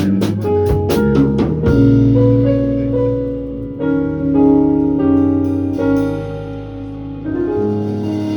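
Live band playing without vocals: a quick run of drum hits for about the first second and a half, then sustained piano chords.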